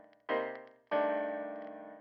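Intro music of keyboard chords, each struck and left to fade away: a short chord, then a longer one about a second in.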